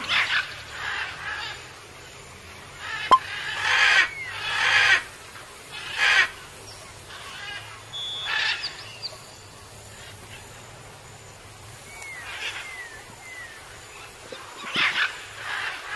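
Outdoor bird calls: a few short chirps and several louder, harsh calls of about half a second each, repeated at intervals. A single sharp knock about three seconds in is the loudest sound.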